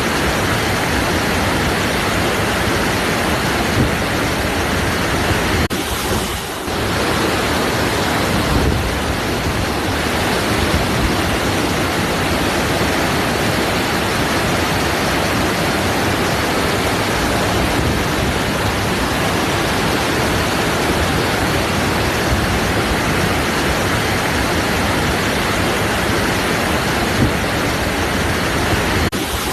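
Waterfall: a steady, full rush of falling water, dipping briefly about six seconds in and again near the end.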